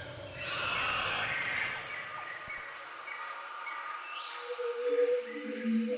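Jungle ambience: a steady high insect drone with short, repeated bird-like calls, and a lower-pitched animal call that comes in near the end.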